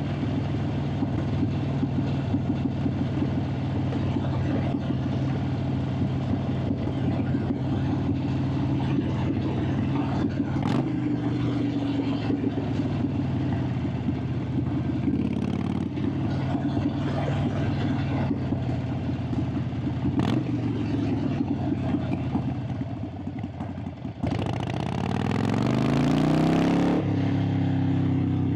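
Harley-Davidson Sportster 883's V-twin engine and exhaust heard on board while riding, running at a steady pace with a couple of sharp clicks. Near the end the revs drop briefly, then climb sharply as it accelerates, with wind rushing over the microphone, before levelling off.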